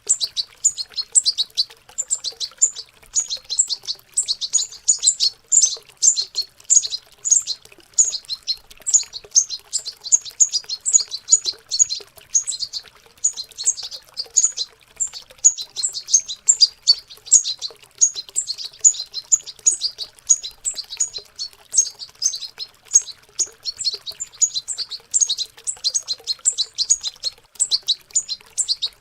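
Young European goldfinches twittering their juvenile practice song (subsong): a dense, continuous stream of quick high chirps and trills.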